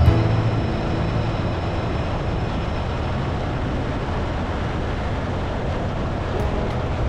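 Steady road and tyre noise of a car driving along, an even rush with no engine note standing out. Background music fades out in the first half second and comes back faintly near the end.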